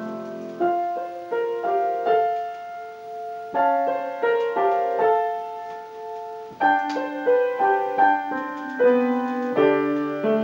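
Piano accompaniment playing a solo interlude between verses of a sung spiritual: a slow line of struck chords and melody notes, each ringing and fading, with a brief softer stretch midway.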